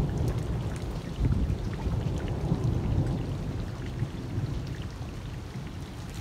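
Rain falling steadily, with many separate drops ticking against surfaces over a heavy low rumble.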